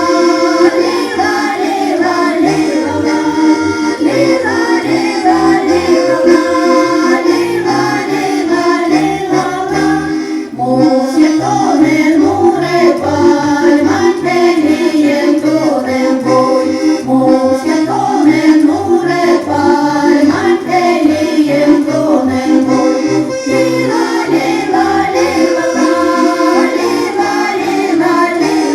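Folk music from a Sami folk ensemble: an accordion plays a melody and voices sing along as a group, with a brief break about ten seconds in.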